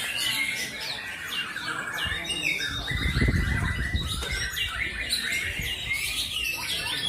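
Many caged songbirds singing at once, white-rumped shamas among them: a dense tangle of overlapping whistles, trills and chirps. A low rumble runs under them from about two seconds in to past four.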